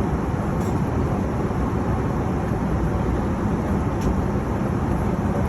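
Airliner cabin noise in flight: the steady low noise of the engines and airflow heard inside the cabin, with a couple of faint clicks.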